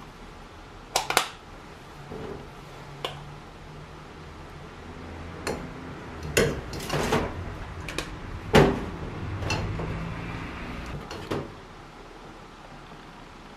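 Small hard objects being handled: about eight irregular sharp clicks and knocks, with a faint low hum in the middle.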